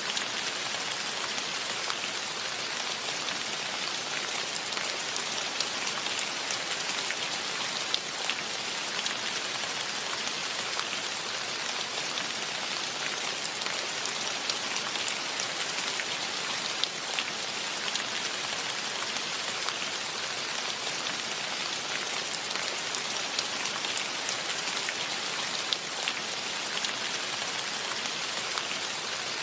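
Steady rain falling, with a continuous hiss and many separate drop hits ticking through it.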